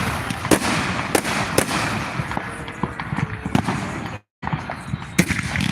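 Fireworks and firecrackers going off: scattered sharp bangs and cracks over a steady background noise. The sound cuts out completely for a moment about four seconds in.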